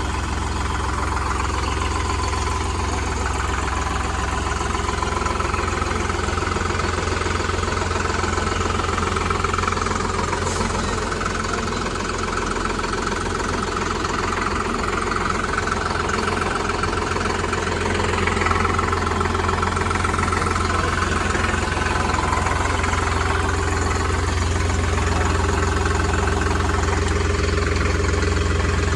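Solis Yanmar 5015 tractor's diesel engine running steadily with a low, even drone.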